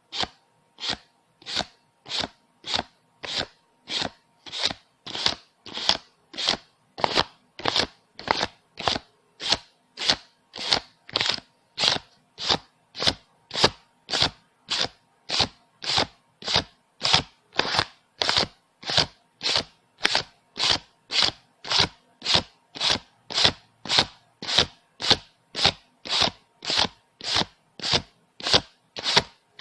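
Paper banknotes being counted by hand, each bill flicked off the stack with a short crisp snap, about two a second in an even, unbroken rhythm.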